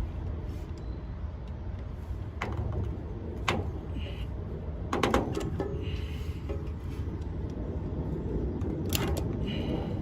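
Scattered metal knocks and clicks from hand tools working on a condenser fan motor's mounting, about four sharp ones with short scrapes between, over a steady low rumble.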